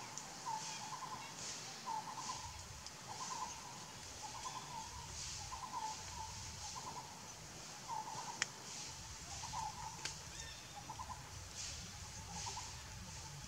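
A bird calling a short note over and over, about once a second, with a faint rhythmic hiss higher up. A sharp click comes about eight seconds in.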